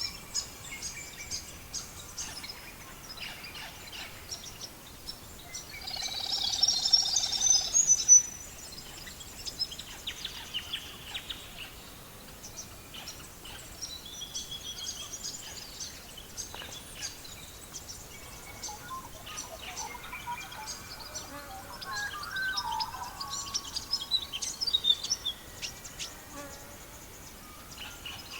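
Songbirds chirping and trilling, with a louder, busier burst of song about six to eight seconds in and another stretch of calls near the end, over scattered crackling pops from a wood fire.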